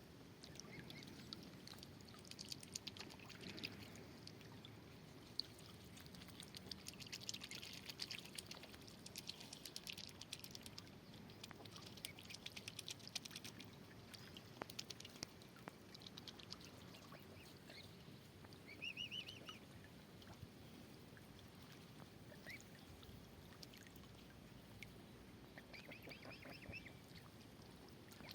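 Faint water splashing and dripping as waterfowl move and feed on the water, with a few short duck calls in the second half.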